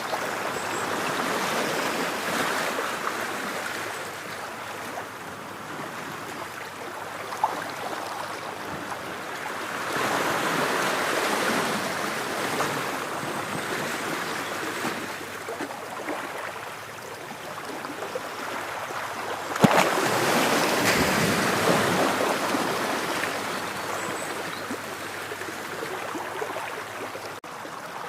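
Ocean waves breaking and washing up the shore, swelling and ebbing in slow surges about every nine or ten seconds. A sharp click cuts through twice, the louder one about twenty seconds in as a wave comes in.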